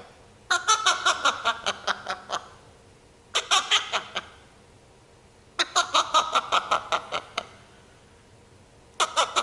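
African grey parrot mimicking laughter: four bursts of quick laugh-like pulses with short quiet gaps between them.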